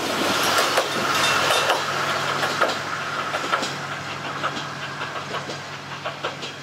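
KiHa 200 diesel railcar moving away after passing, its wheels clacking over the rail joints at irregular intervals while the whole sound slowly fades.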